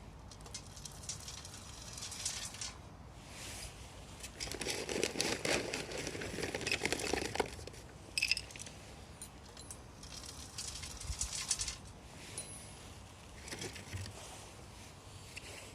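Wood fire in a Solo Stove fire pit crackling in scattered bursts, with a louder stretch of rustling and rattling about four to seven seconds in.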